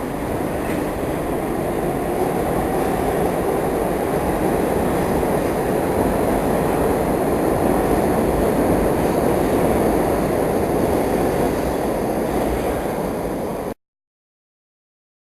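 New York City subway R62A train running on the rails, a loud, steady rumble that swells slightly and then eases a little. It cuts off suddenly to silence near the end.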